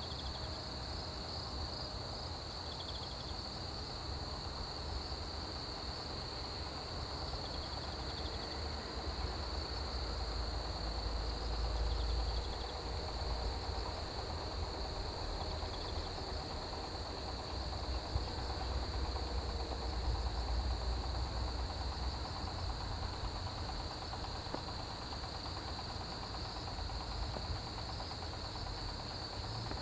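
Autumn grass insects chirring in a dense, steady chorus: one continuous high trill, and a higher one pulsing rapidly. A low rumble swells up twice, about twelve and twenty seconds in.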